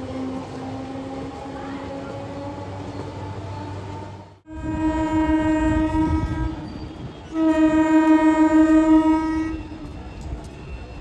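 Indian train horn sounding two long blasts, each about two seconds, loud and rich in overtones. Before them a lower steady tone sinks slowly in pitch, and the sound drops out for an instant just before the first blast.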